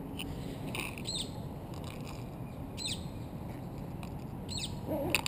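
A bird gives short high chirps, one every second and a half to two seconds, over a steady low hum of distant city noise. A brief louder sound comes near the end.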